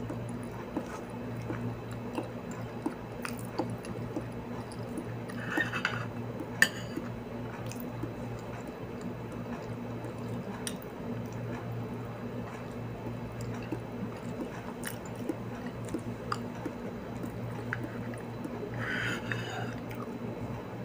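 Close-up eating sounds: chewing and soft mouth noises, with small clicks of a metal spoon against a plastic food tray. One sharp click about six and a half seconds in is the loudest. A steady low hum runs underneath.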